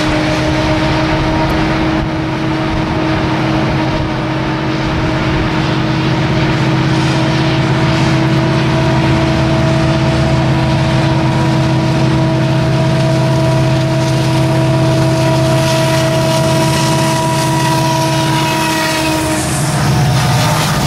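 Diesel freight locomotives hauling a coal train, a loud steady rumble. A steady tone is held over it and cuts off about nineteen seconds in.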